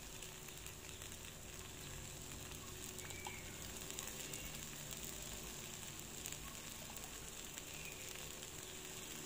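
Takoyaki batter frying in oil in a takoyaki pan: a faint, steady sizzle.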